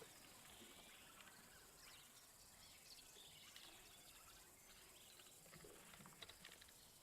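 Near silence: faint outdoor ambience, with a few scattered faint chirps and ticks.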